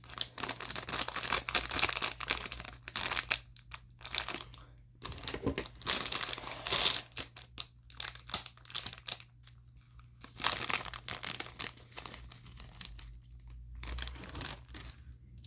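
Plastic packaging crinkling in irregular spells as it is handled and opened, with short quiet pauses between.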